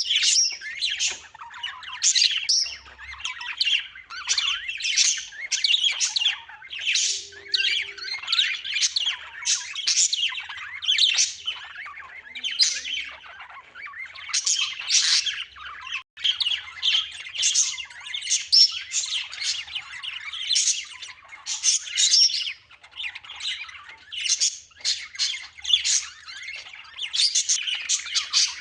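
A group of birds chirping and squawking: many short high calls overlapping without a pause, with a brief break about halfway.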